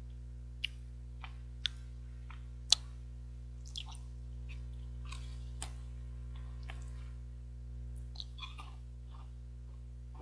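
Biting and chewing a crunchy 21-grain chocolate bar: several sharp crisp cracks in the first three seconds, a few seconds of softer crackly chewing, then two more cracks near the end, over a steady low electrical hum.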